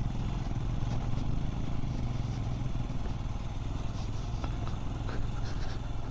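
Motorcycle engine running steadily under way, with a few short knocks and rattles from riding over a rough, broken road.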